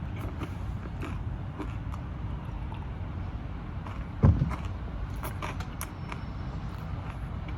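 Chewing and mouth noises of someone wolfing down pizza, short wet clicks and crackles over a steady low rumble. A dull thump comes about four seconds in.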